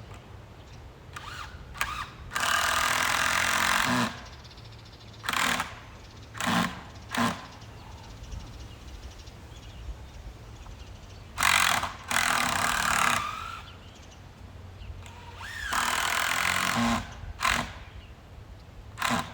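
Power drill driving screws into wood: three longer runs of about a second and a half each, with shorter squeezes of the trigger between them.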